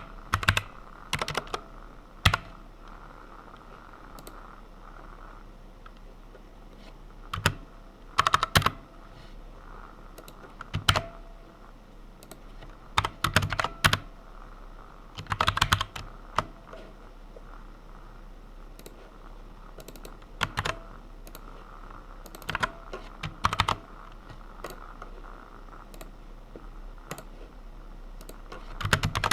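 Computer keyboard typing in short bursts of a few keystrokes, separated by pauses of several seconds. A faint steady hum runs underneath.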